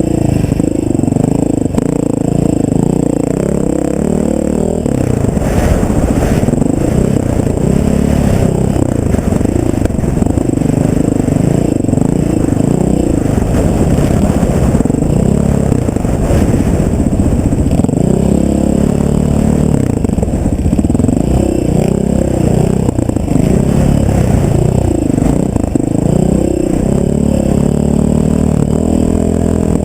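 Off-road vehicle engine running under load on a rough trail, its pitch rising and falling over and over as the throttle opens and closes, with rattling from the ride.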